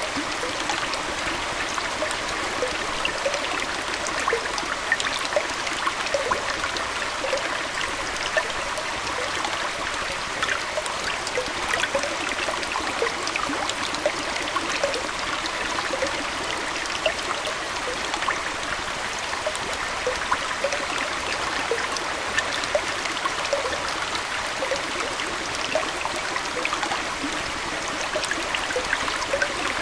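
Aquarium water flowing and trickling steadily, with many small bubbling and splashing blips on top.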